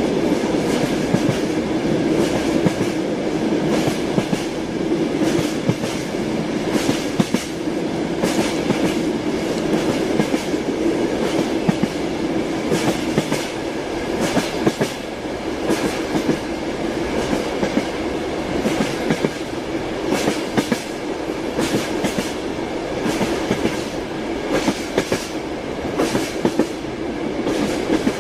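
A train's cars rolling past, the wheels clattering and clicking over the rail joints in a steady, continuous run.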